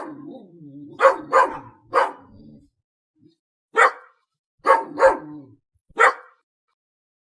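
Dog barking: about eight short, sharp barks in irregular groups of one or two.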